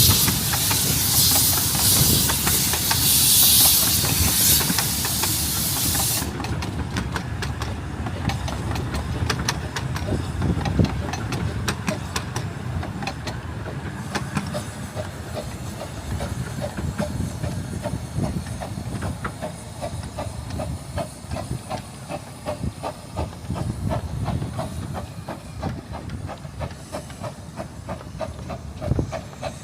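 15-inch gauge steam locomotive letting off steam with a loud hiss that cuts off suddenly about six seconds in. The train then runs on with a steady rhythmic clatter over a low rumble.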